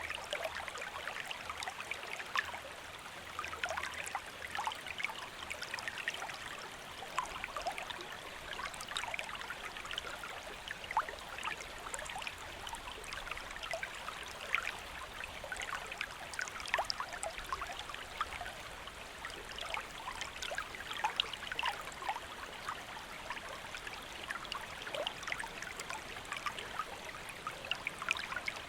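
Shallow stream flowing and trickling over rocks, a steady rush full of small splashes and gurgles.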